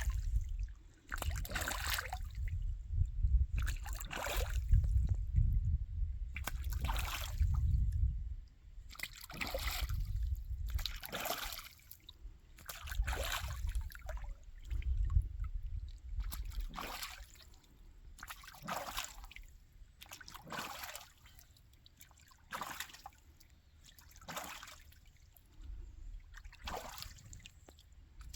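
Water splashing and sloshing in a small pond in short bursts every second or two, the sound of birds bathing. A low rumble runs under the first half.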